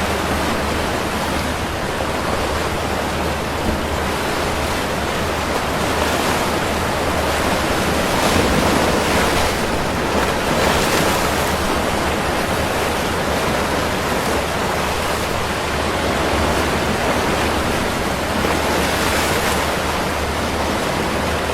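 Ocean surf: a steady rush of breaking waves that swells louder a few times.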